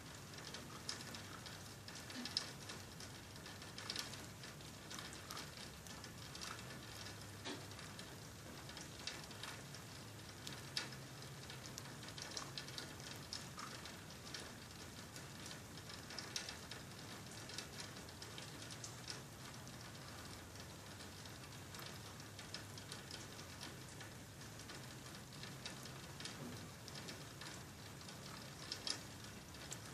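Faint rain: a steady hiss with scattered ticks of single drops striking a nearby surface.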